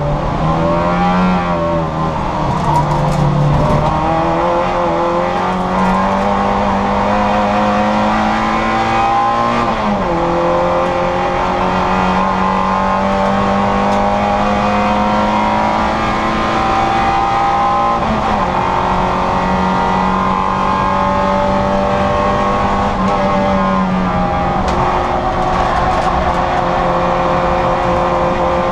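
Citroën Saxo VTR's four-cylinder engine under hard acceleration on track, heard from inside the car. Its pitch climbs slowly through long pulls and drops sharply at upshifts about ten, eighteen and twenty-four seconds in, after a wavering stretch of lifts and downshifts in the first few seconds.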